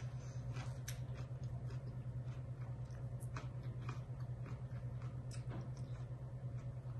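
A person chewing mouthfuls of raw, crunchy salad greens, with short irregular crunches. A steady low hum runs underneath and is the loudest thing.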